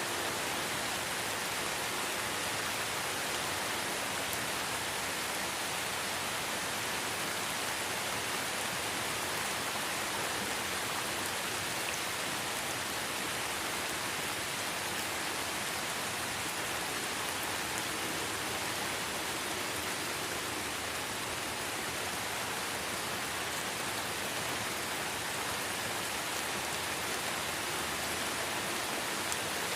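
Steady light rain falling in a forest, an even hiss of drops with no let-up.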